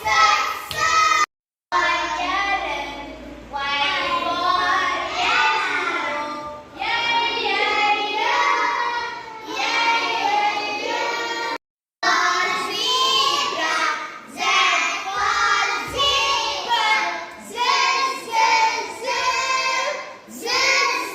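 A group of young children singing together, a phonics song. The sound cuts out completely twice, briefly, about a second in and again near the middle.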